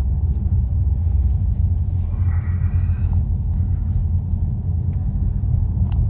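Steady low rumble of road and engine noise inside a moving car's cabin. A short rise of hiss comes about two seconds in, and there is a single click near the end.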